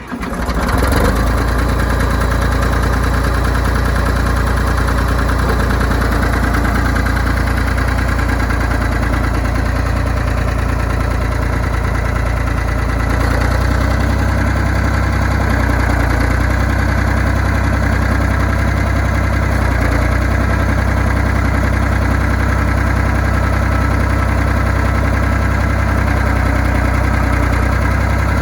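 John Deere 350B crawler dozer's engine starting up and then running steadily at idle, getting a little louder about halfway through.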